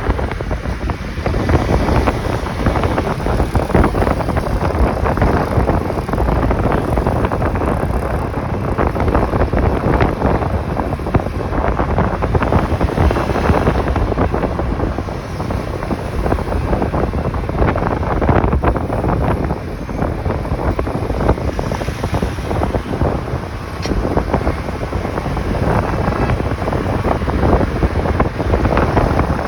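Wind rushing over the microphone of a moving motorcycle, a loud steady rumble with the motorcycle's engine and road noise underneath.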